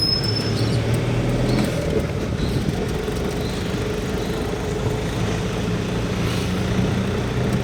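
Car engine hum and road noise heard from inside a moving taxi, steady throughout.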